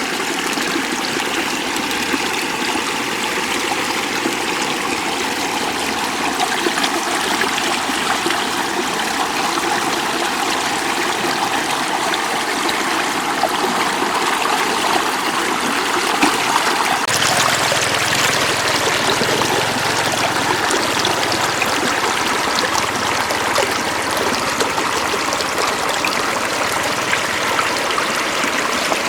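Shallow floodwater running and trickling, a steady rush of water whose sound shifts about seventeen seconds in.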